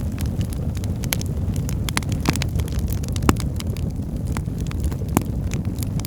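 Wood fire burning in a fireplace: a steady low rumble of flames with irregular crackles and sharp pops, the loudest pops about two, three and five seconds in.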